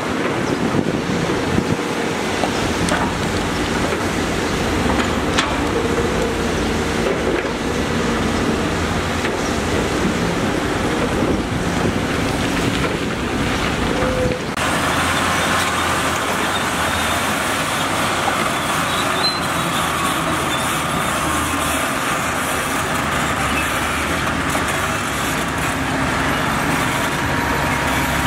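Diesel engines of heavy construction machinery running steadily. About halfway through, the sound changes abruptly to a higher, hissier engine noise.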